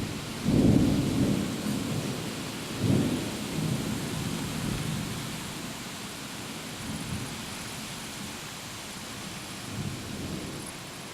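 Thunder: a loud low peal about half a second in, a second one about three seconds in, then rolling rumble that fades away, over a steady background hiss.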